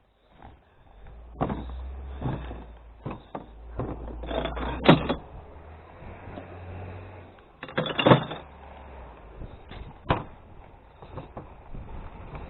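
Truck engine running low and steady, with a series of sharp knocks and thuds over it, the two loudest about five and eight seconds in.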